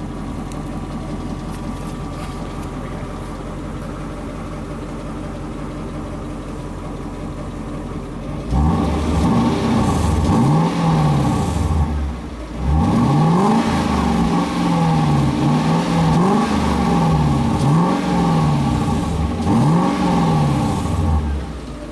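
Lexus LS 400's V8 running with its rear mufflers cut off: it idles steadily, then about eight seconds in it is revved once long, and from about thirteen seconds in it is blipped about six times in quick succession. Even with the mufflers gone it is still quiet, not overwhelmingly loud.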